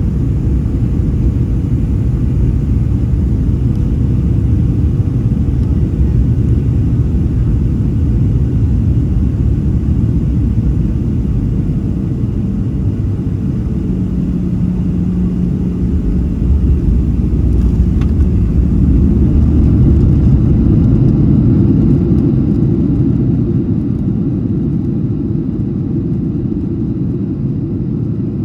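Boeing 737-800 cabin noise on landing: the deep rumble of the CFM56 engines and airframe. It swells louder about seventeen seconds in, then eases off toward the end.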